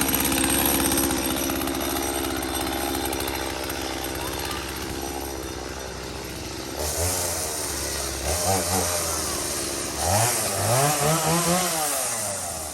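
Gas chainsaw engine idling steadily just after starting, then revved several times in the second half, its pitch rising and falling with each blip of the throttle.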